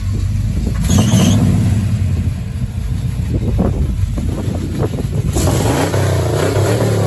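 Vehicle engine running steadily and super loud, with a low, even hum that swells briefly about a second in and again near the end.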